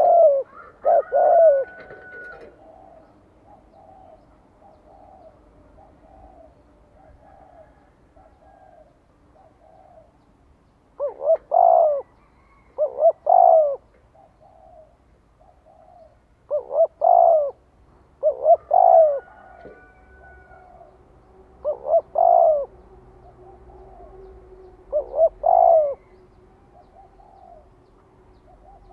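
Spotted dove (chim cu gáy) decoy bird cooing: loud phrases of a few coo notes every three to five seconds, with a run of softer, quick coos between them early in the stretch. This is the cooing call a decoy dove gives to draw in and provoke wild males.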